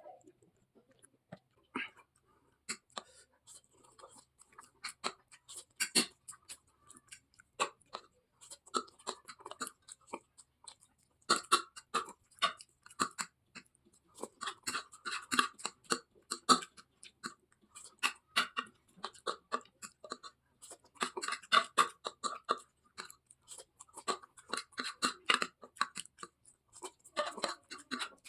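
Someone eating Maggi instant noodles fast: rapid wet chewing and mouth sounds that come in bursts of many short clicks, with brief quieter pauses between them.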